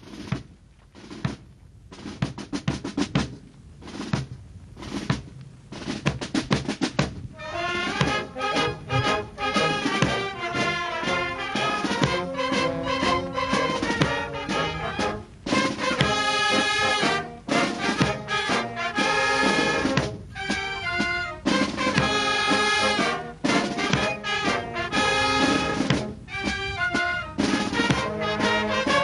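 Brass band music with drums. It opens with separate drum strikes, then after about seven seconds the full brass comes in playing.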